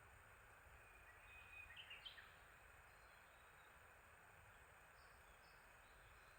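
A small songbird gives one short burst of high chirps about a second and a half in, faint over a steady hiss of outdoor ambience.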